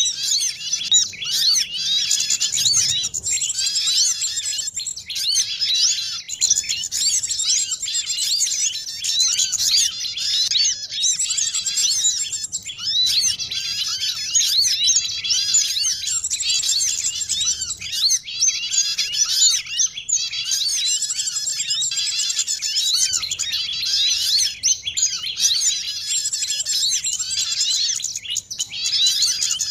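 Dense, unbroken chorus of many small songbirds, rapid high chirps and twitters overlapping throughout. This is a bird-trapping lure recording of small birds such as sunbirds, white-eyes and prinias calling noisily.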